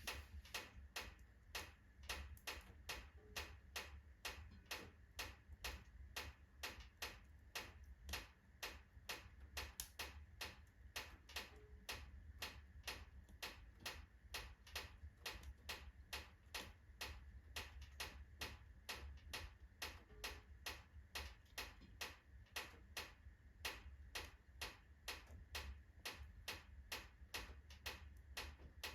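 Oak logs burning in a fireplace, crackling with sharp pops about two to three times a second at uneven intervals, over a steady low rumble.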